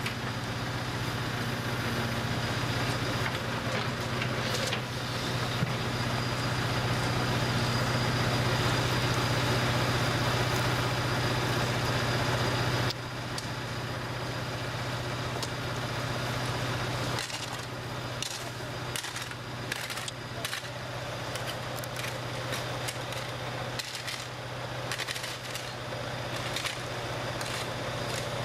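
Work-vehicle engine running steadily at a heating-main repair dig, with a low hum throughout. It drops in level about halfway through, and in the second half comes a run of irregular knocks and scrapes from the digging and repair work.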